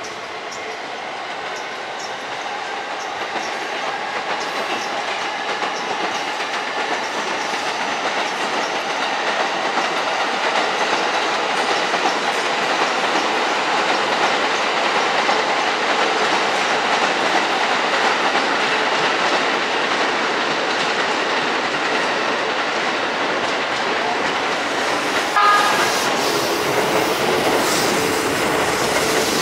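Electric train running along the station tracks, a steady rumble and rail noise that grows louder over the first ten seconds. A short high tone sounds about 25 seconds in, followed by a steady low hum.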